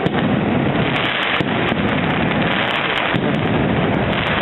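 Aerial fireworks bursting and crackling in quick succession, a dense, unbroken run of bangs and crackle.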